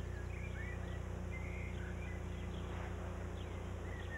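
Scattered short bird chirps and whistles, over a steady low hum.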